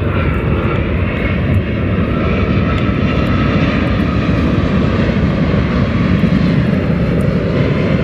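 Jet engines of a Boeing 787 Dreamliner on final approach at reduced thrust: a loud, steady rumble with a faint, slowly drifting whine above it.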